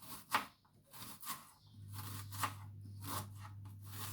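Kitchen knife slicing an onion into thin slices, about four crisp cuts roughly a second apart.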